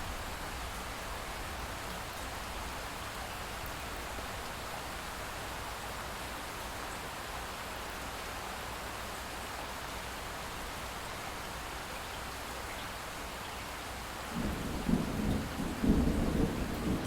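Steady light rain hissing. A low rumble of distant thunder starts near the end and swells louder.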